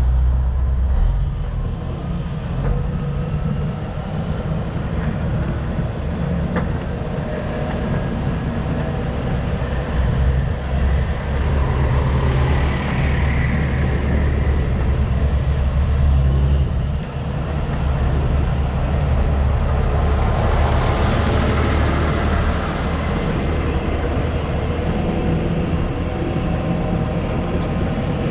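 Heavy truck engine running, a steady low rumble.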